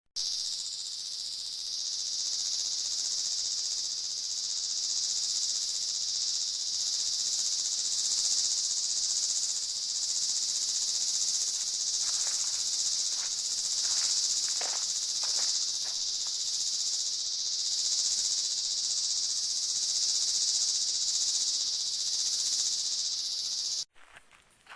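Steady, high-pitched chorus of insects, unbroken, that cuts off abruptly about a second before the end. A few faint clicks sound in the middle.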